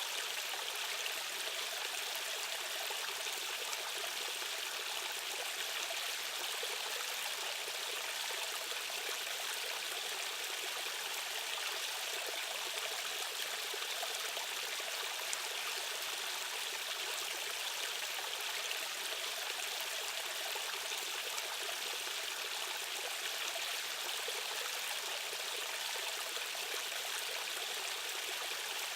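Fast-running stream water rushing steadily, an even, unbroken hiss of flowing current with no breaks or changes.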